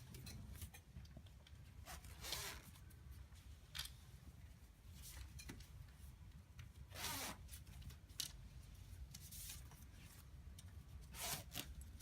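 Zipper on a stretch-fabric display graphic being pulled shut in short, faint rasping strokes a second or two apart, the longest about seven seconds in.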